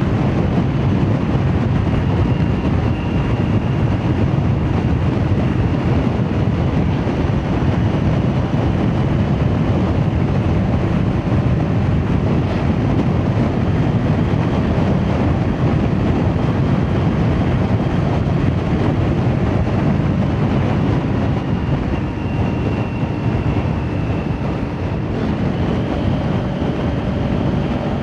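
Kawasaki Ninja 400 parallel-twin engine with an Akrapovič exhaust, running at a fairly steady pace while being ridden.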